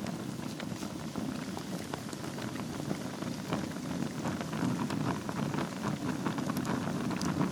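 Wood fire burning in a fireplace over glowing embers: a steady low rushing with frequent small crackles and pops.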